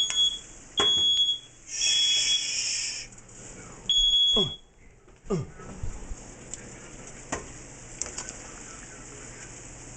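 High-pitched electronic alarm beeping, four loud beeps in the first four and a half seconds, the third longer than the others. Afterwards only a faint steady hiss with small crackles remains, like oil frying.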